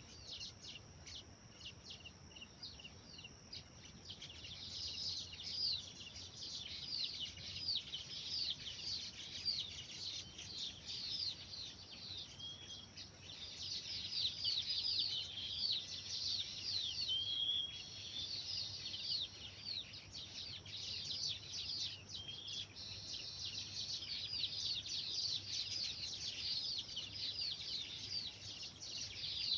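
A flock of small birds chirping all at once: a dense, continuous chatter of short, high, downward-sweeping chirps, several a second, which grows busier about four seconds in.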